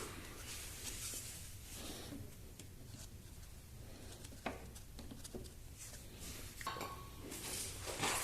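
Faint hand-handling of a new lawnmower air filter and its housing: soft rustling and a few light plastic clicks, with a brighter rustle near the end.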